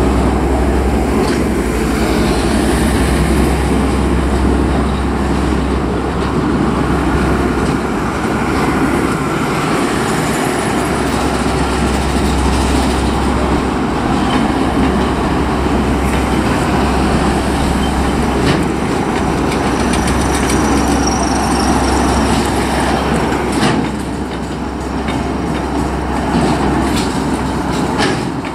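Freight train of container and empty flat wagons rolling past at a level crossing: a steady loud rumble with scattered wheel clacks over the rail joints.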